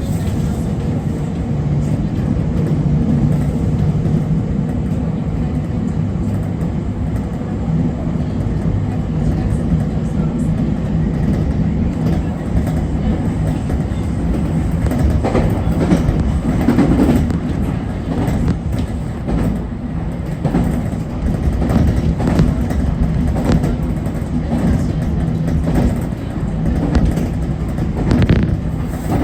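JR Kyushu 811-series electric multiple unit running along the line, heard from inside the train: a steady running rumble with low motor tones. In the second half, rail-joint clacks come thick and fast.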